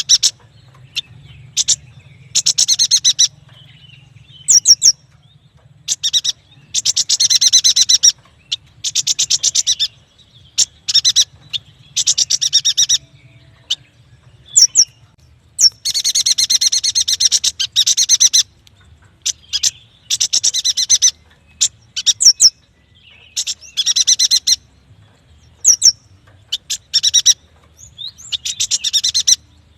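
Yuhina in full song: rapid chattering trills of one to two seconds each, repeated every couple of seconds, with short sharp double notes between them, over a faint low hum.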